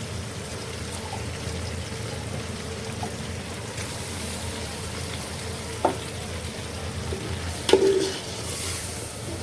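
Chicken pieces and onions frying in oil in a pan, with tomato and ginger-garlic paste just added: a steady sizzle while being stirred. A utensil knocks against the pan twice in the second half, the second knock louder.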